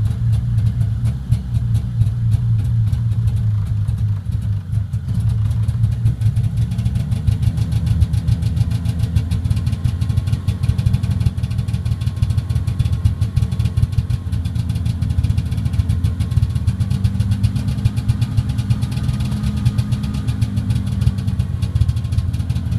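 Polaris Indy 340 snowmobile's two-stroke engine idling steadily just after a cold start, warming up with the choke partly on.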